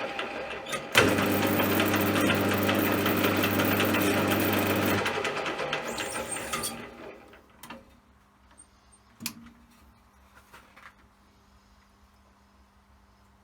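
CJM360 benchtop metal lathe running, then shutting off and winding down to a stop over a couple of seconds, followed by a few sharp clicks.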